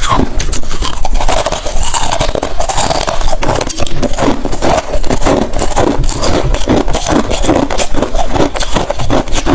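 Close-miked chewing of hard freezer ice: a steady run of loud, sharp crunches and crackles, with chewing strokes coming a few times a second.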